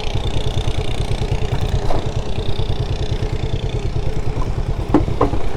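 Motorcycle engine running steadily with an even low pulse, with a couple of sharp knocks about five seconds in.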